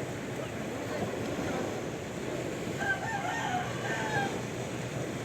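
A rooster crowing about three seconds in, a wavering call over a steady wash of sea waves.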